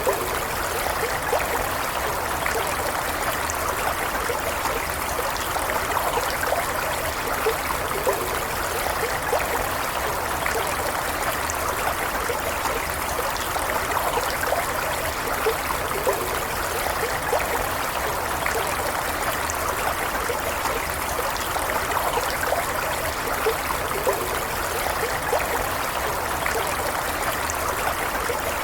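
Small stream running steadily, water burbling and trickling over stones with constant flowing hiss.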